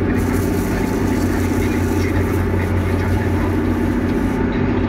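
Excavator's diesel engine running steadily, with a higher hiss over it that stops near the end.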